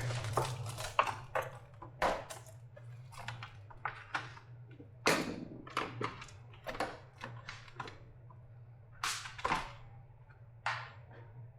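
An M1PS Knight battery pack being worked apart by hand: irregular sharp clicks, cracks and short scrapes, a dozen or more, over a low steady hum.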